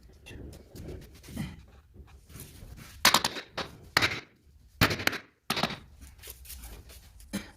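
A hand tool knocking and scraping on a cement mortar bed: about five short, sharp strokes, the loudest about three seconds in, with faint scuffing between them.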